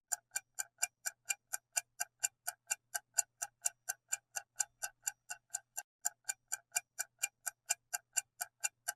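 Clock-style ticking sound effect, a steady run of about four even ticks a second: the quiz's countdown timer running while the viewer picks an answer.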